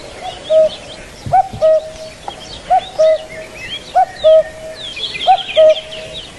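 A bird repeating a two-note call about five times, roughly once every second and a half: a short rising note followed by a held steady note. Many quick, high chirps from other small birds run underneath.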